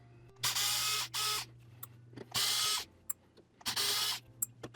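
Small electric screwdriver running in four short bursts, each about half a second long, backing tiny screws out of the remote controller's button circuit board.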